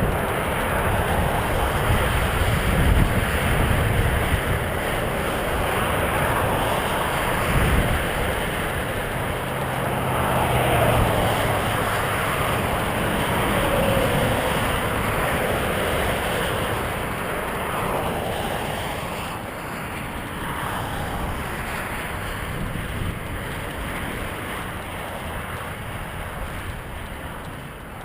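Wind buffeting a GoPro microphone on a moving bicycle, with a low rumble from the ride. The rush eases somewhat over the last several seconds.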